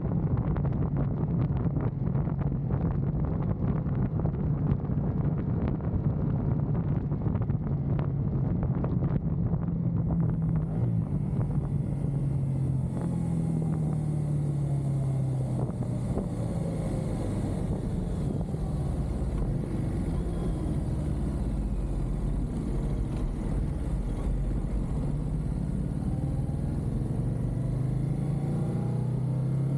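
Motorcycle engine running under way, its note dropping as the bike slows and rising again as it speeds up near the end. Wind buffets the microphone through the first third.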